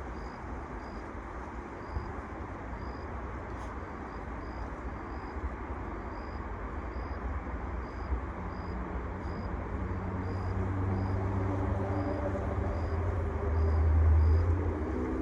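Outdoor ambience: a steady background hiss with a faint high chirp repeating about twice a second, and a motor vehicle drawing nearer in the second half, its engine hum loudest near the end.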